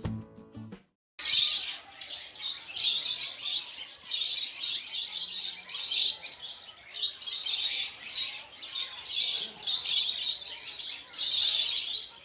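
Many small birds chirping and twittering together in a dense, continuous high chatter. It begins about a second in, after a brief silence, and swells and dips in short bouts.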